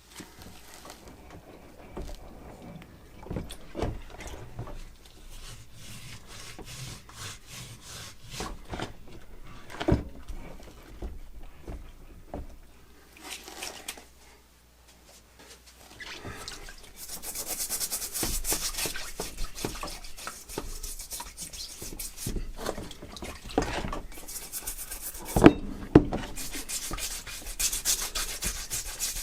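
Hand abrasive work, rubbing and scraping strokes. Scattered scrapes and taps at first, then continuous hissy rubbing strokes from a little past halfway, with a couple of sharp knocks near the end.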